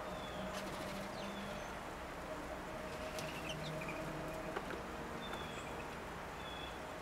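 Faint bird calls: a few short, high chirps scattered through, with a couple of light clicks a little past the middle, over a steady low hum.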